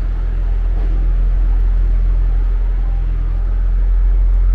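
Steady low rumble of a motor vehicle's engine running close by on a city street.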